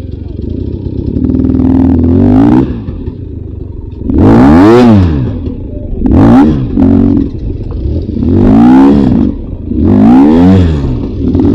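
Beta 300 RR's 300cc two-stroke single-cylinder dirt bike engine running and being blipped hard about five times, each rev rising and falling quickly, with lower running between the bursts.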